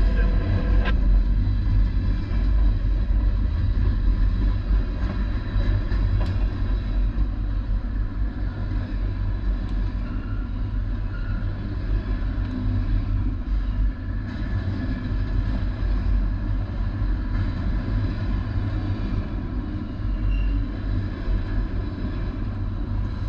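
Freight train rumbling steadily, a continuous low rumble.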